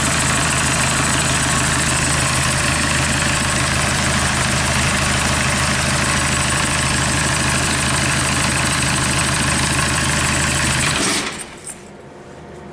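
Kia D4CB 2.5-litre four-cylinder common-rail turbodiesel running steadily at idle out of the vehicle. It stops about eleven seconds in.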